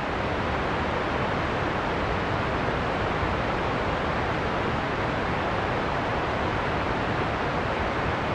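Steady, even rushing noise of a heavy-rain-and-wind sleep soundscape, with no separate drops or gusts standing out.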